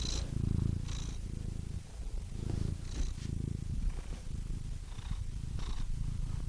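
Domestic cat purring: a low rumble that swells and fades with each breath, with short faint high-pitched noises over it about once a second.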